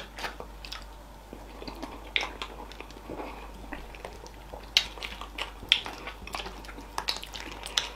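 Close-up mouth sounds of eating fufu and slimy okra soup by hand: wet chewing with scattered short smacks and clicks.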